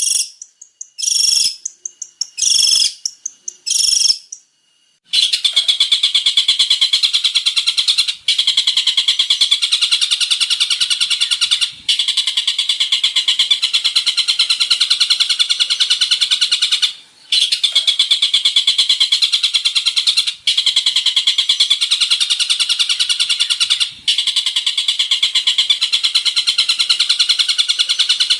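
Long-tailed shrike (cendet) singing: a few short, high chirps, then, from about five seconds in, a long, fast stream of rapidly repeated notes broken by a handful of brief pauses.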